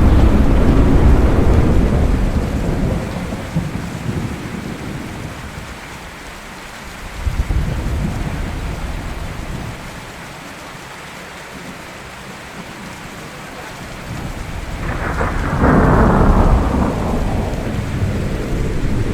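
Steady rain with rolling thunder: a peal rumbles and fades over the first few seconds, a brief lower rumble comes about seven seconds in, and a second loud thunderclap breaks about fifteen seconds in and rolls on to the end.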